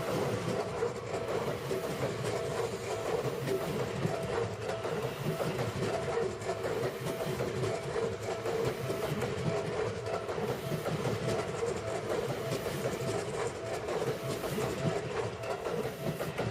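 Electric commuter train running on the Seibu Railway, wheels clattering over the rails in a steady run of clicks, with a steady tone held throughout.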